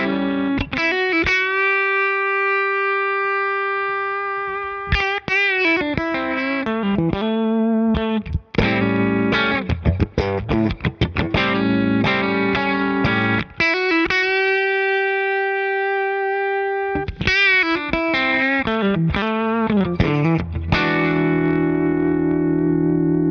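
Electric guitar played through a Ross compressor pedal into a tube amp. It plays lead lines whose single notes are held and sustain smoothly for a few seconds, with quick runs in between, and ends on a chord that rings on.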